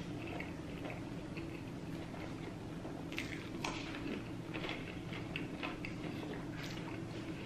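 A person chewing food close to the microphone, with soft wet mouth clicks and crackles and a couple of sharper clicks about three seconds in. A steady low hum runs underneath.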